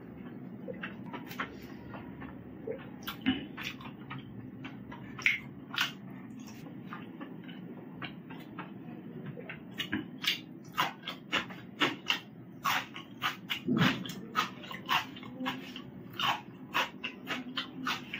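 A person chewing with the mouth open, making wet chewing and lip-smacking clicks. The clicks are sparse at first and come about two a second from roughly halfway on, over a steady low hum.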